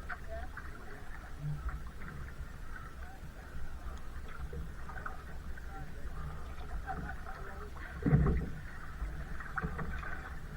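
Kayak on the water: paddle and water sounds with small scattered knocks over a steady low rumble, and one louder thump about eight seconds in.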